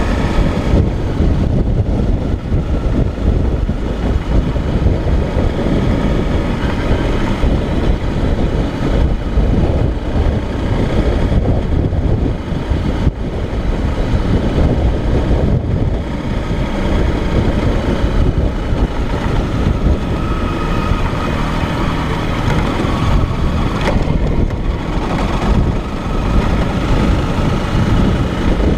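Motorcycle engine running while riding, heavily mixed with wind buffeting on the microphone.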